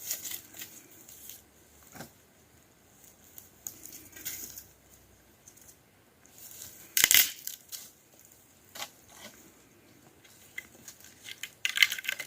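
Intermittent rustling, crinkling and small clicks from objects being handled, with one sharp knock about seven seconds in.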